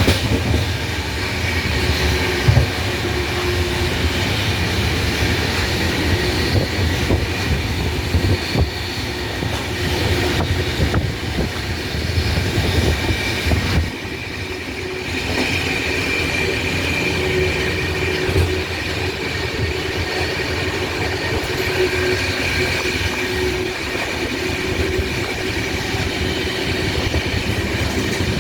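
A train running along the track: a steady rumble with faint, drawn-out high tones above it.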